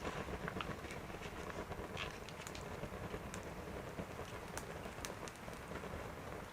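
Wood fire in a camp wood stove crackling, with scattered small snaps and pops over a low wind rumble on the microphone.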